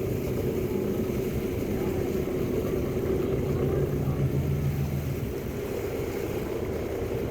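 Whale-watching boat's engine running steadily, a low hum under a hiss of wind and water.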